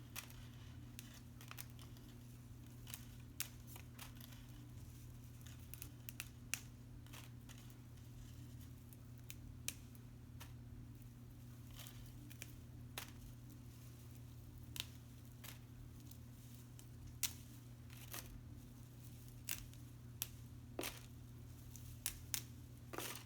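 Pine straw being picked apart by hand: irregular small snaps, tears and crinkles, a few every couple of seconds, over a steady low hum.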